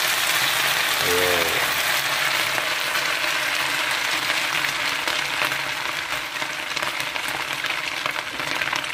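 A spoonful of sardine mixture sizzling in hot oil in an aluminium wok: a steady frying hiss that eases slightly in the second half. A short voice sound comes about a second in.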